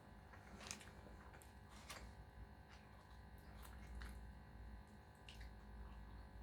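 Faint wet chewing and lip-smacking from someone eating, with about half a dozen short mouth clicks spread through.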